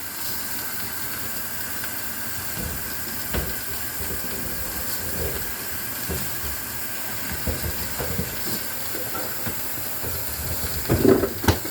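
A steady hiss while the iced-up freezer section of a refrigerator is being defrosted, with scattered light knocks and a few louder clunks near the end. The ice has built up over a stopped evaporator fan.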